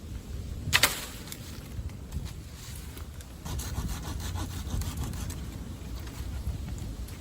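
Saw cutting through wood in repeated strokes, steadier in the second half, with one sharp knock about a second in.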